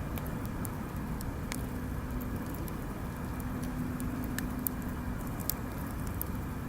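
Wood bonfire crackling: scattered sharp pops and snaps over a steady low rush, with two louder pops in the second half.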